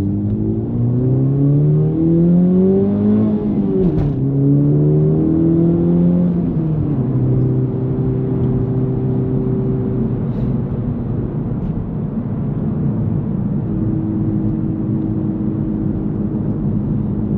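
Honda Civic Type R (FL5) turbocharged 2.0-litre four-cylinder breathing through an AWE Touring exhaust, heard from inside the cabin: it accelerates with rising revs, shifts up about four seconds in, accelerates again, then settles into a steady cruise from about seven seconds on.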